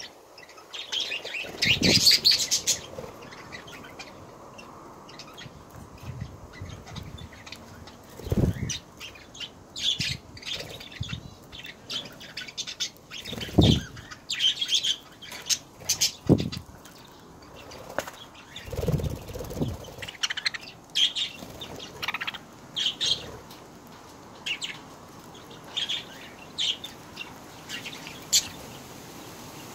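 Budgerigars chirping in short high bursts, with several flurries of wing flapping close by, the loudest about four times, as birds fly on and off a hand-held seed container.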